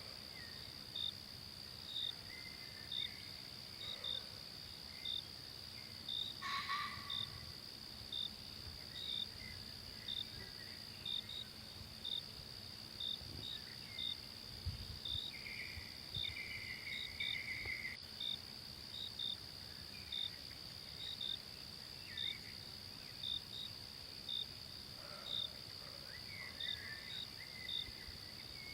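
Forest ambience dominated by a steady high insect drone, with short chirps repeating about once a second. A few brief bird calls come through, including a longer call about fifteen to eighteen seconds in and again near the end.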